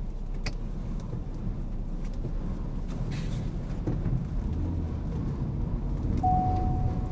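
A car's engine and road noise heard from inside the cabin, a steady low rumble with a few faint clicks. Near the end a steady electronic beep starts and repeats about once a second.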